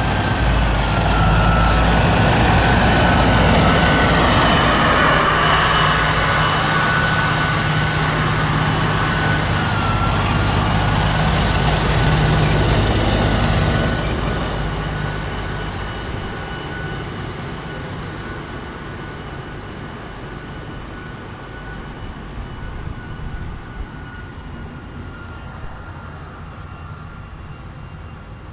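Heavy military vehicles driving past, a deep engine rumble with a steady high whine over it. Loud for the first half, then fading away gradually as the column moves off.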